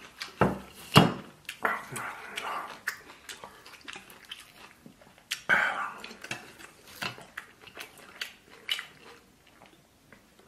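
Close-up eating sounds: wet chewing and lip smacks from a mouthful of noodles, with two sharp smacks about half a second and a second in and a louder breathy burst about five and a half seconds in, thinning out toward the end.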